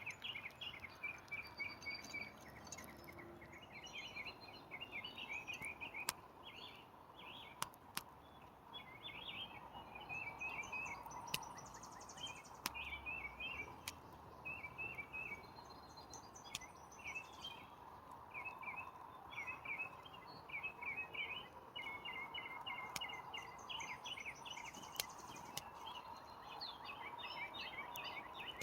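Small songbirds chirping and twittering in quick runs of trilled notes over a steady background hiss, with a few sharp clicks.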